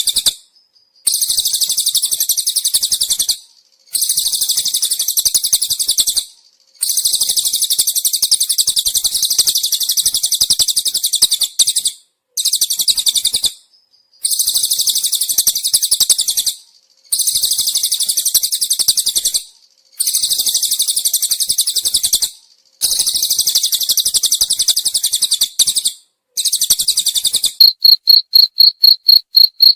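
Cililin birdsong played for bird training: repeated bursts of fast, high, buzzy trilling, each a few seconds long with short pauses between them. Near the end a cricket takes over with clear, evenly pulsed chirps.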